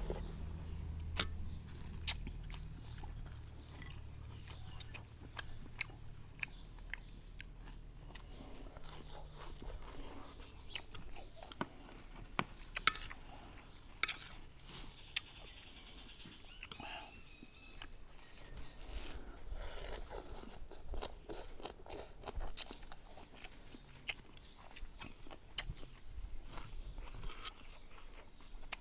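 Close-up eating sounds: chewing and biting on noodles and pork, with sharp clicks scattered throughout. A low hum fades out over the first several seconds.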